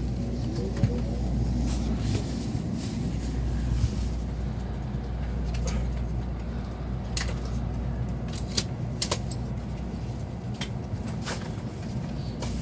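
Steady low rumble of a Sanyo Shinkansen train, with scattered sharp clicks.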